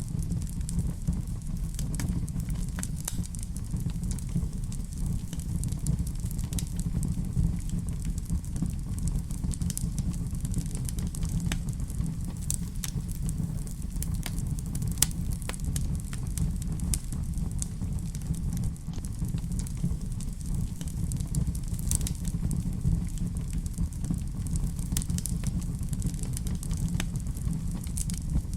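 Fireplace fire crackling, with frequent scattered sharp pops and snaps over a steady low rumble.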